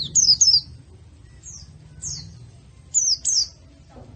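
White-eye (pleci) song from a training recording: short, high chirps that slide downward, coming in quick clusters of two or three about once a second.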